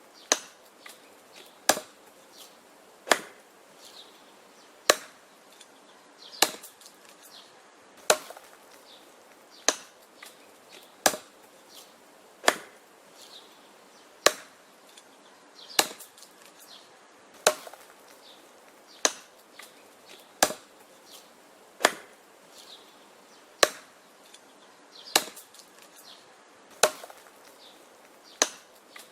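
An axe chopping wood with steady, sharp blows, about one every second and a half, some followed by a lighter knock.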